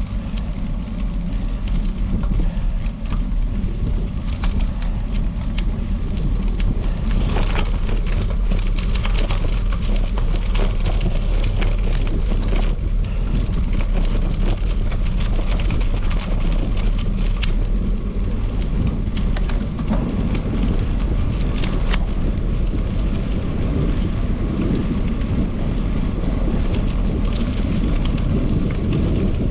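Wind buffeting the microphone while cycling: a steady low rumble with irregular crackling and clicking over it, typical of tyres on gravel.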